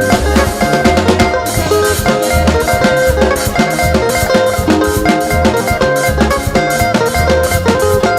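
Upbeat praise band music: a drum kit keeps a steady beat under bass and sustained keyboard notes.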